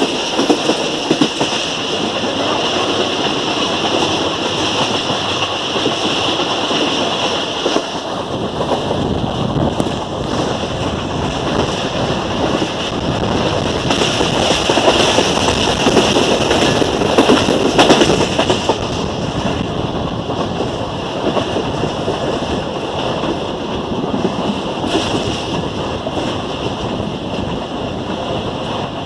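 Pakistan Express passenger train running along the track, with a steady rattle and clatter of wheels and carriages that swells louder a couple of times.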